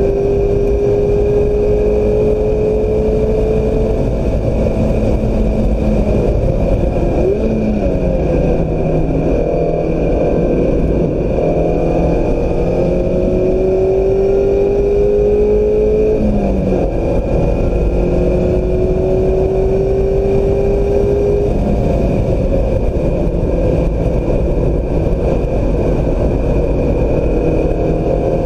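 2016 Mazda MX-5 Miata's 2.0-litre four-cylinder engine under load on track, its pitch climbing slowly as it accelerates and dropping sharply at lifts or gear changes, with a quick rev blip among them, over steady road and wind noise.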